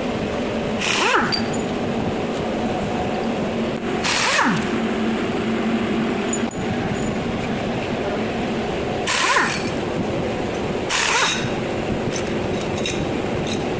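Steady mechanical running hum with four short hissing bursts, each starting with a quick falling whistle.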